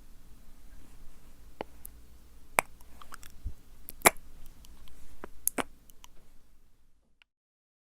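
Close-miked wet ASMR mouth sounds: scattered sticky clicks and smacks of lips and tongue, about a dozen, stopping about seven seconds in.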